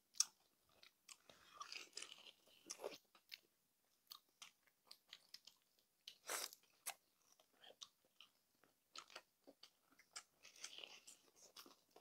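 Close-up crunching and chewing of crispy pata, deep-fried pork leg with crackling skin: many short, irregular crunches and mouth clicks, one louder crunch about six seconds in.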